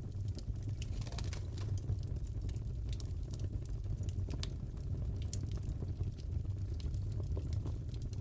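Crackling fireplace ambience: a steady low rumble of the burning fire with scattered, irregular sharp crackles and pops.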